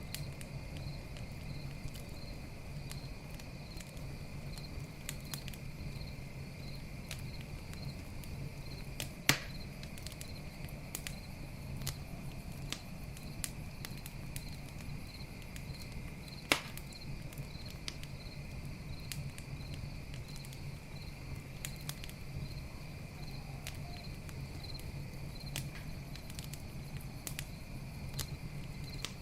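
Campfire crackling with scattered small pops, and two sharp louder pops about nine and sixteen seconds in. Night insects chirp steadily throughout.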